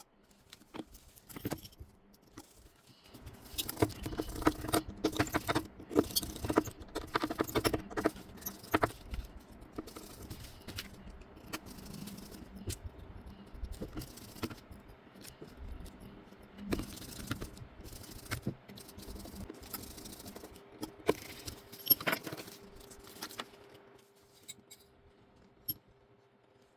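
Small tools and phone parts being handled during a phone repair: a series of sharp clicks, taps, light metallic rattles and scrapes. They come thickest a few seconds in and thin out near the end, over a faint steady hum.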